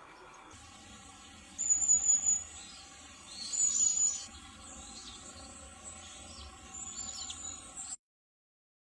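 Tali pocong munias at the nest as a parent feeds its chicks, giving high, thin chirping in three bursts, the last one weaker. A steady low hum runs underneath, and everything cuts off abruptly near the end.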